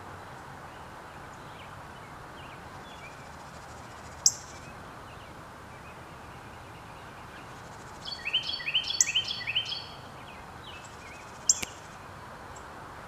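Outdoor ambience: a steady background hiss with a songbird calling. A single sharp high chirp comes about four seconds in, then a quick run of about five repeated rising notes around eight to ten seconds, and another sharp chirp near the end.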